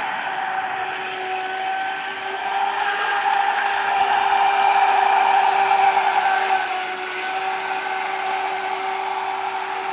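Leopard motor running on a test, a steady high whine with a fainter hiss above it, growing louder for a few seconds in the middle and then settling back to its earlier level.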